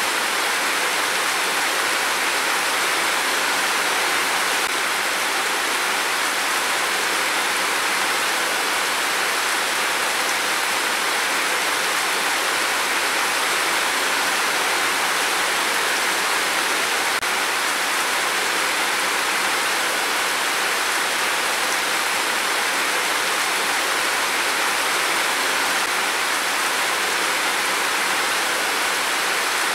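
Heavy rain pouring down in a steady, even hiss that holds unchanged throughout.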